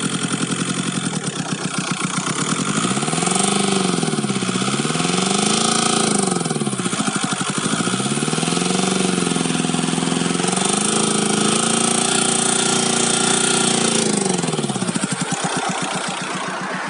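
Volkswagen Golf 4 1.9 TDI four-cylinder turbodiesel engine idling, then revved up and down several times, with the last rev held for a few seconds before it drops back to idle near the end. The owner is showing a strange noise in the engine whose cause he does not know.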